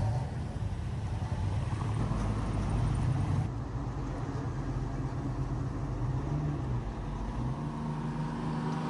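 Car engine running, a steady low rumble whose pitch shifts a couple of times.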